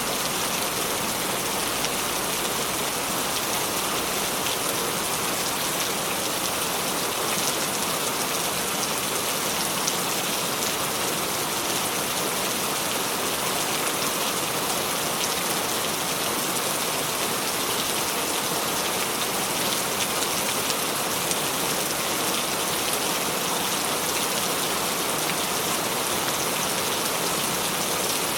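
Steady rain falling, a dense, even hiss of drops hitting surfaces, with no thunder.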